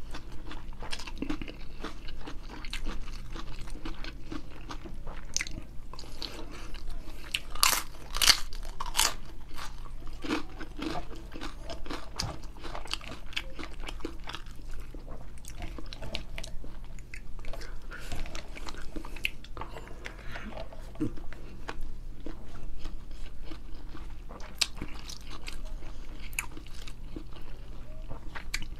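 Close-miked chewing of hand-eaten rice and grilled fish, with many sharp wet clicks and crunches from the mouth; the loudest crunches come about eight seconds in. A steady low hum runs underneath.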